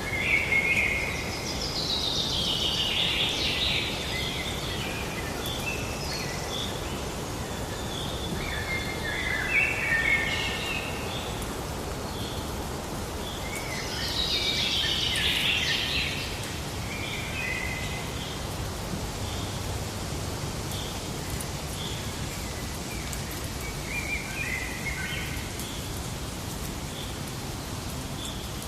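Songbirds singing over a steady background hiss: two loud, falling, trilled phrases, one early and one about halfway through, with short high chirps repeating about once a second in between.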